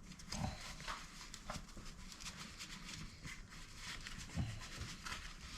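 Faint, scattered knocks and clicks at irregular moments over a low background hum, the sound of parts and tools being handled in a workshop.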